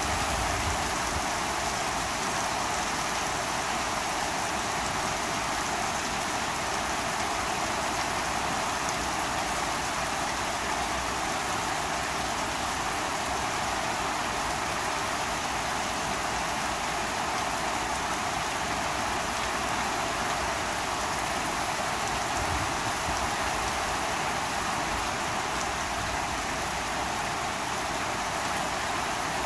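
Heavy rain falling steadily on a lawn and a paved driveway, an even unbroken hiss.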